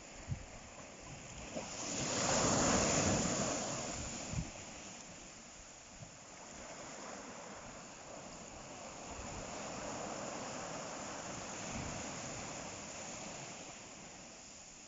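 Sea waves breaking on the shore: one wave crashes about two seconds in and washes back out, and a softer surge follows later. A few short low thumps come through early on the wash.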